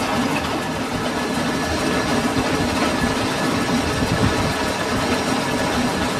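Metalworking lathe running steadily, a continuous mechanical drone with no break or change.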